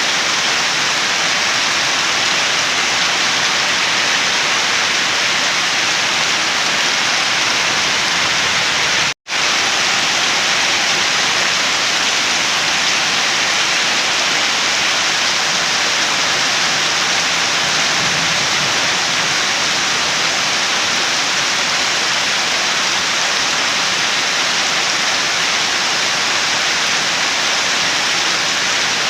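Steady, dense rain falling, an even hiss with no let-up. The sound drops out completely for a split second about nine seconds in, then resumes unchanged.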